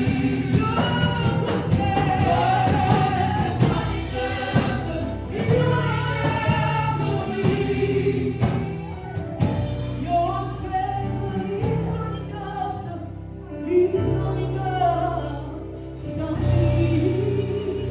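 Live gospel worship music: a congregation and singers singing together over a band with a steady beat.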